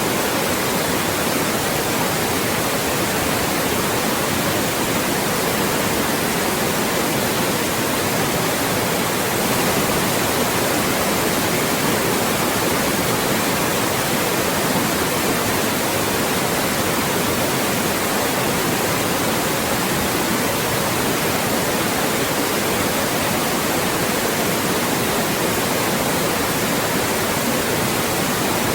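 Loud white noise: an even, unchanging hiss with no breaks or changes.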